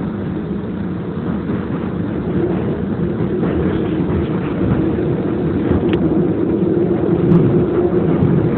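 Elevated rapid-transit train car in motion, heard from inside the car: a steady low rumble with a constant motor hum, growing slowly louder.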